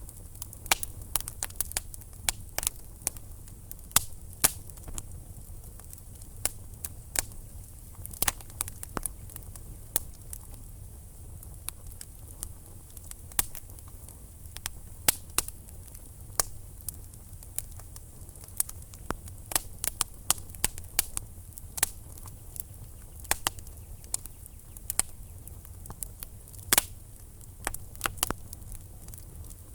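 Wood fire crackling: burning logs give off irregular sharp pops and snaps, several a second, over a low steady rumble of the flames.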